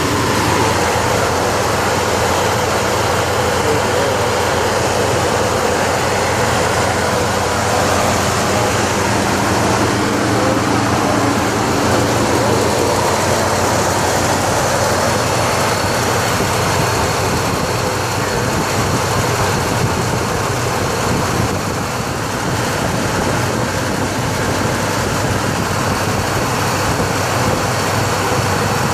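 1973 Cadillac Eldorado on the move, its 500 cubic-inch V8 running steadily under road noise.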